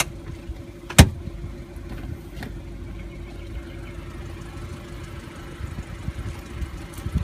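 Car engine idling, a steady low hum and rumble heard from inside the cabin, with one sharp click about a second in.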